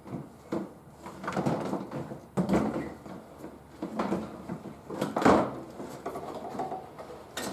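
Hard plastic trim creaking, scraping and knocking as it is pressed into place and screwed to the car's sheet metal, in a run of irregular rubs and bumps with one sharp knock about five seconds in.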